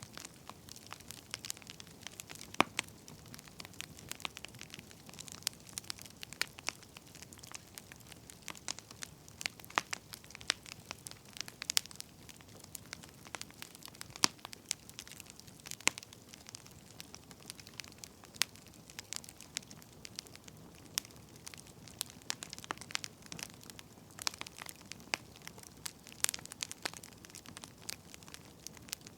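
Wood fire crackling: irregular sharp pops and snaps, several a second, over a low steady hiss.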